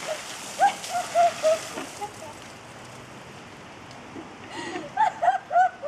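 Water falling and pattering like rain as a steady hiss, with two runs of short, high-pitched squeaky calls, one about half a second in and another near the end.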